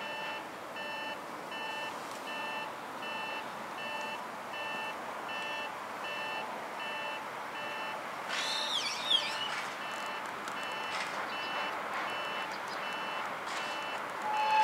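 Electronic railway warning signal beeping in a steady repeating pattern, a little over once a second, which stops about halfway through; a few seconds later a brief high wavering squeal.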